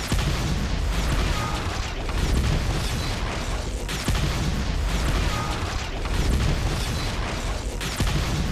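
Loud, dense booming and mechanical rumble, like attack-helicopter weapons and explosions, in a loop that repeats about every four seconds.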